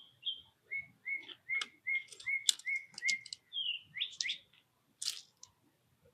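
A songbird singing a run of repeated clear whistled notes, about two or three a second, shifting to a lower note partway through. Sharp clicks and taps sound over the song in the middle.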